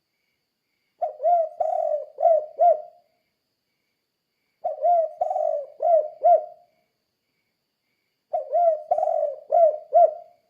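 Spotted dove (tekukur) cooing in the song style bird-keepers call 'kuk 2': three phrases of about five coos each, a few seconds apart.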